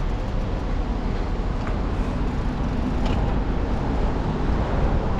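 Steady road traffic noise of vehicles on the road, with heavy low rumble.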